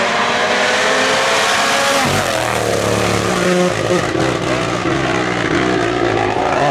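Rally car engine at full throttle on a stage, its pitch falling and rising again through gear changes.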